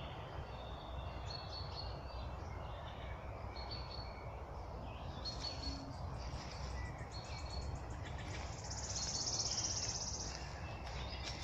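Several songbirds singing and chirping over a steady low background rumble. A fast, buzzy, high trill comes in louder about eight seconds in and lasts a couple of seconds.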